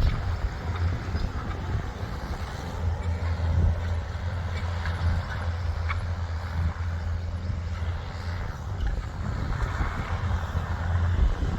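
Ford tractor engine running steadily with a low, even drone.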